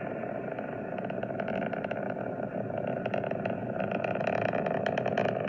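Rumble of an Atlas V rocket climbing on its RD-180 main engine and five solid rocket boosters, with crackling that grows denser over the last couple of seconds.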